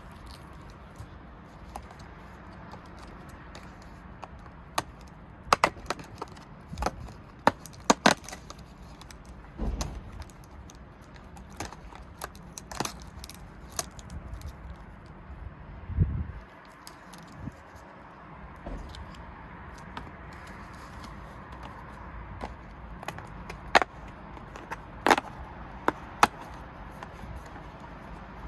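Small hard plastic pieces clicking and tapping as they are handled, in irregular scattered knocks with a duller thump in the middle, over a steady low background hiss.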